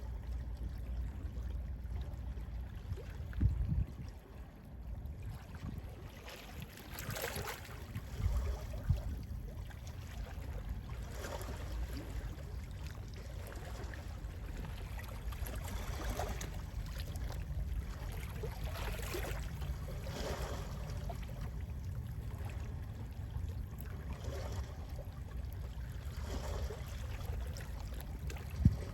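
Gentle sea waves lapping and washing on a shore, a soft wash every few seconds over a steady low rumble. A few short low thumps stand out, the sharpest near the end.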